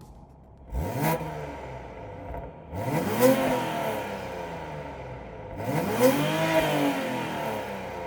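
Toyota Supra A90's 3.0 B58 inline-six being revved through an FI valvetronic exhaust: a short blip about a second in, then two fuller revs that climb and fall back.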